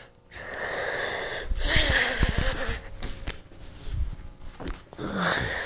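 A person breathing hard right at the microphone, with a few soft low thumps about two seconds in.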